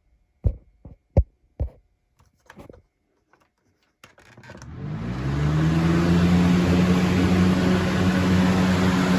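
A few sharp clicks, then the 2002 Lasko Ultra Force box fan's motor starts about four seconds in. Its hum rises in pitch as it spins up, then holds steady under a loud rush of moving air.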